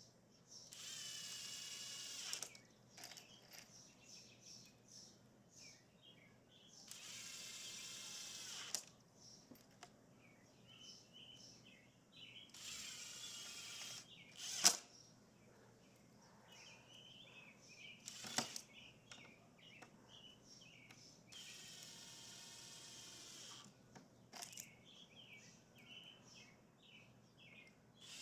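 Cordless drill running in short bursts of about two seconds, several times over, as it drives screws, with a couple of sharp knocks in between. Birds chirp faintly in the gaps.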